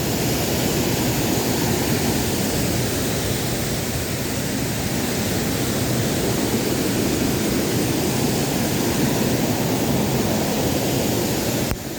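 Waterfall rushing, a steady even roar of falling water that drops off suddenly just before the end.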